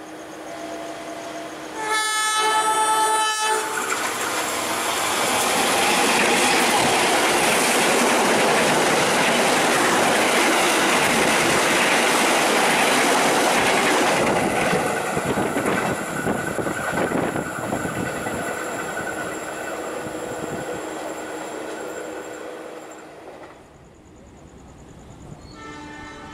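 A diesel locomotive horn sounds for about a second and a half, then a passenger train passes close alongside on the next track, its loud rush and wheel clatter lasting about ten seconds before slowly fading. Near the end another train horn sounds briefly.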